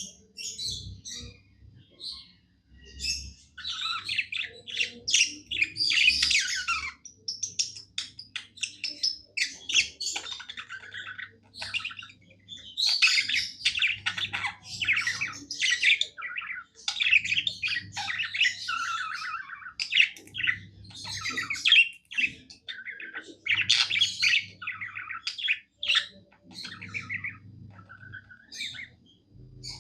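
Budgerigar warbling: a busy chatter of quick chirps and squawks in phrases of a few seconds, with short pauses between them.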